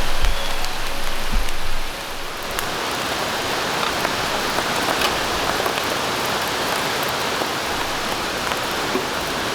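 Steady rain falling in a forest, an even hiss with scattered drip ticks. It is a little louder, with a couple of low thuds, in the first two seconds.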